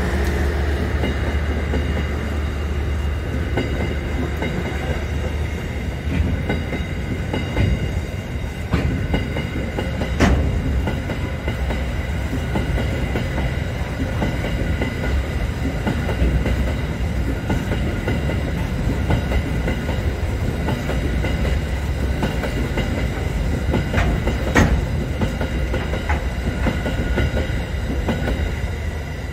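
Wagons of an SCT steel freight train rolling past: a steady low rumble with wheels clacking over rail joints and a few sharp clanks, over a faint, steady, high-pitched ringing.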